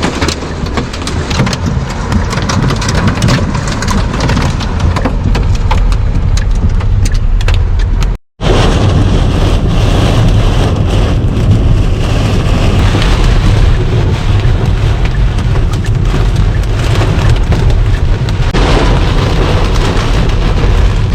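Heavy rain drumming on a moving car, heard from inside, with many sharp ticks of drops hitting during the first part and a steady low rumble of the car on the wet road underneath. The sound cuts out for a moment about eight seconds in.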